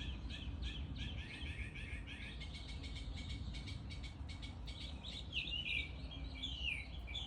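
A bird calling over and over: a fast run of short high chirps, then, from about five seconds in, a string of falling notes repeated roughly once a second.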